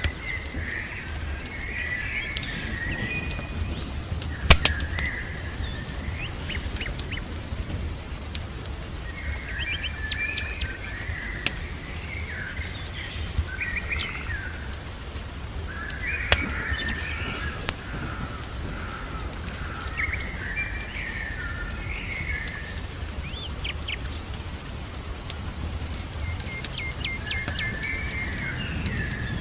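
Small birds chirping and singing in short repeated phrases throughout, over a steady low rumble, with scattered sharp crackles of a fireplace; the loudest crackles come about four and a half seconds in and again about sixteen seconds in.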